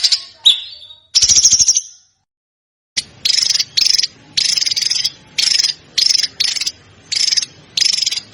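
Songbird calls: two short rattling trills about a second apart, then after a pause a run of short chattering bursts about twice a second.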